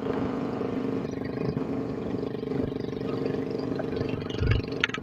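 Motorcycle engine running at a steady speed, with a couple of low thumps and sharp clicks near the end.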